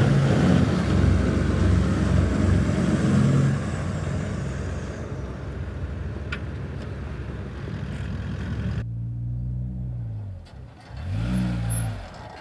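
Toyota 79 series LandCruiser engines revving under load as one vehicle tows the other down off a sand mound on a recovery strap. The engine note eases after about three and a half seconds. About nine seconds in it drops sharply to a quieter idle, and a short rev rises and falls near the end.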